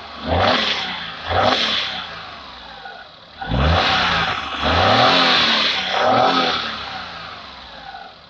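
Hyundai Eon's small three-cylinder petrol engine, on fresh oil, revved in a series of throttle blips, the pitch rising and falling with each, the biggest two a few seconds in, then dropping back toward idle near the end.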